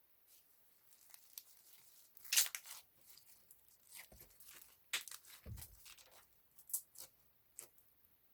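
Crinkly material handled by hand, with irregular crinkling and tearing strokes, loudest about two and a half seconds in, and a soft low thump about five and a half seconds in.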